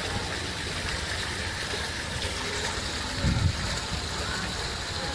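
Water pouring down an artificial cliff-relief waterfall into a pond, a steady rushing splash. A brief low thump about three seconds in.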